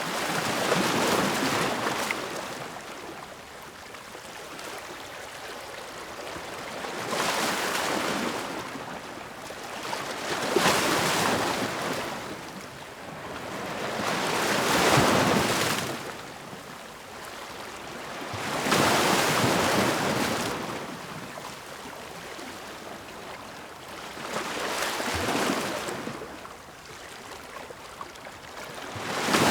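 Ocean waves breaking and washing ashore, the surf swelling and fading in six surges a few seconds apart, with another wave building at the end.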